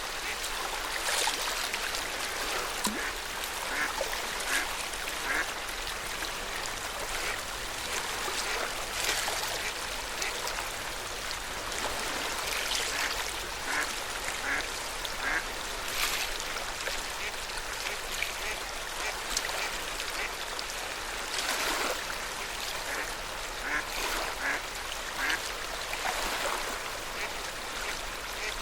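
Lake water lapping and splashing steadily at the shore, with ducks quacking in short runs of calls now and then.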